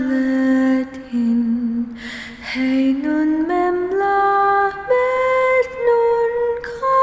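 A woman singing a slow chant in long, held notes, the pitch stepping upward from about three seconds in and staying high near the end.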